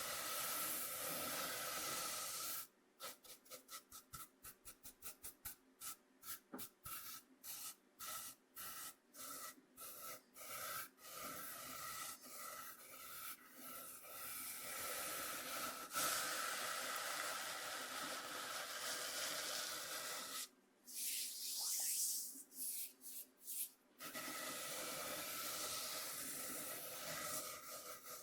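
Coarse cornmeal scraped across a bamboo cutting board: a continuous hissing scrape, broken a few seconds in by a run of short separate strokes, and again about three quarters through by a brief pause with a few quick strokes.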